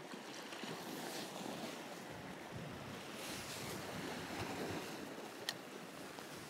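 Sea waves washing against shore rocks, swelling and easing in a few surges, with a single sharp click near the end.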